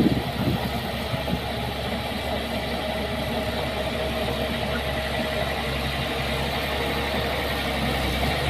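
Diesel engine of heavy earthmoving equipment running steadily at a low, even pace.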